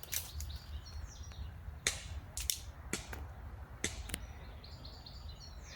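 About seven sharp cracks at irregular intervals from a pistol fired at the tree from a distance, the projectiles striking and ricocheting near the tree. Faint bird chirps between them.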